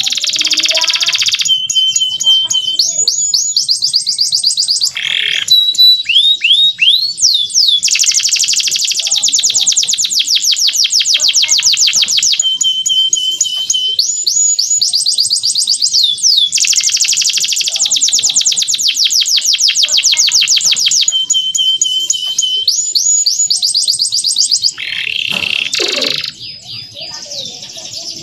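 Male canary singing a continuous song: long fast trills alternate with rising whistled notes and short held steady notes. A lower, rougher phrase breaks in briefly near the end.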